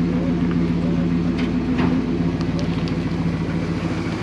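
A car engine running with a steady low hum that eases off slightly in the second half.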